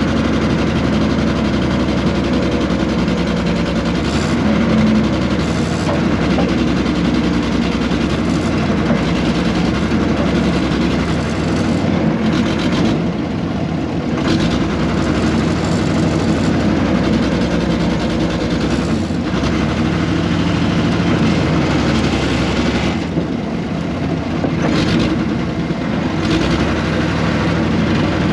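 Air-cooled Deutz diesel engine of a 1970s excavator running steadily, with a few brief knocks.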